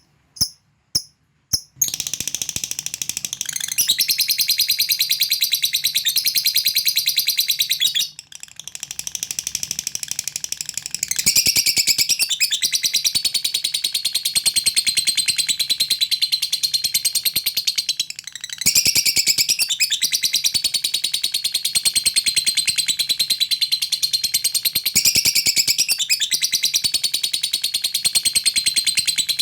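Lovebird giving a long 'ngekek' song: a few separate chirps at first, then a fast, continuous, high chattering trill that breaks off briefly twice before running on.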